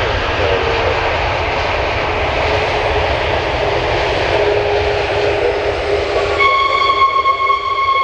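Jet airliner engines running loudly in a steady rush, with a faint low tone that slides slightly down as the aircraft passes. About six and a half seconds in, a steady high-pitched whine with overtones starts suddenly.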